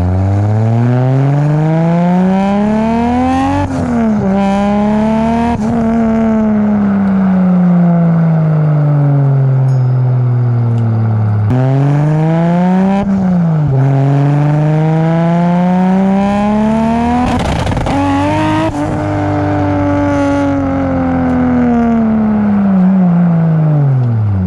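Toyota Supra Mk4's turbocharged inline-six, heard from inside the cabin, pulling hard through the gears twice. Each time the engine note climbs, drops sharply at each gear change and climbs again, then falls away slowly as the car backs off.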